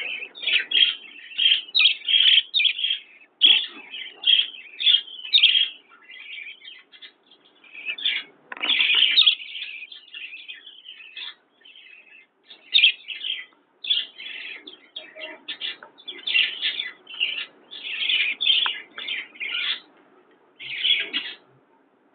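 Parrots chirping, a long run of short, rapid calls in uneven bursts with brief pauses.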